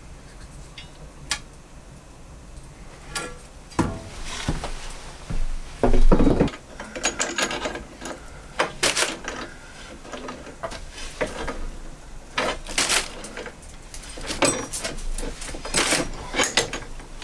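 Irregular knocks, clicks and scrapes of hard objects being handled, with the loudest knock about six seconds in.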